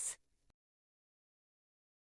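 Silence: a synthesized voice trails off in the first moment, then nothing at all.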